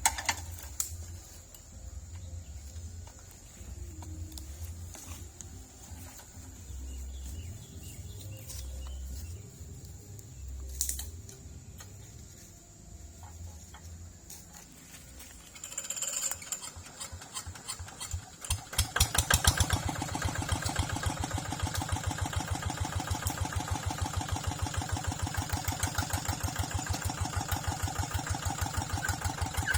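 A tractor engine starts up about two-thirds of the way in, then runs steadily with a fast, even pulse. Before that there is only a low rumble.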